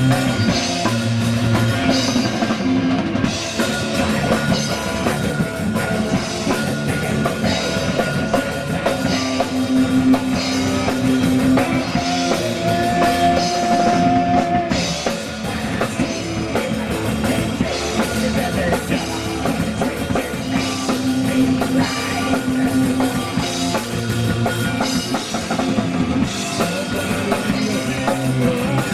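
Live rock band playing loud at a sound check: a drum kit with snare and bass drum driving a steady beat, with electric guitar holding long notes over it.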